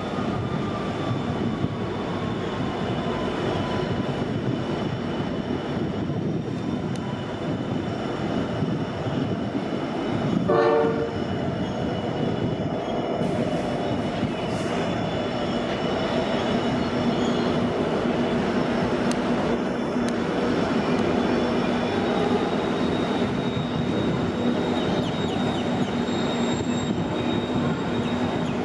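Freight train led by 93 class diesel locomotive 9313 rolling through a station, with the steady rumble of its long rake of hopper wagons on the rails. A short horn blast sounds about ten seconds in.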